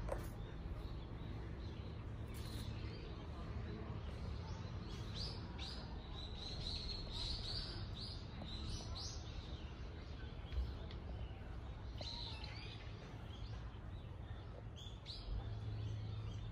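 Small birds chirping in short, quick, repeated calls, busiest through the middle, over a steady low background hum. One brief knock comes a little past the middle.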